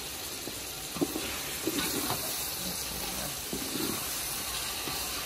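A chicken and tomato masala sizzling and hissing in a hot aluminium pot as a wooden spatula stirs it, with knocks and scrapes of the spatula against the pot, the sharpest about a second in.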